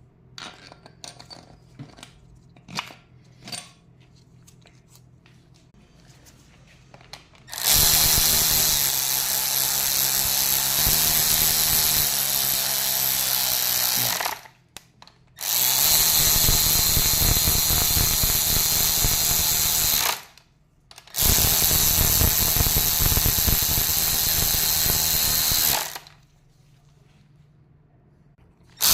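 A handheld power tool running in three long runs of about five to six seconds each, with short pauses between. Before it come a few light clicks and clinks of tools being handled.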